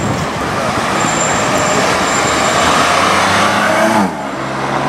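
BMW M2 Competition's twin-turbo straight-six accelerating past and getting louder. About four seconds in the revs fall sharply and the sound drops suddenly to a lower, steadier note.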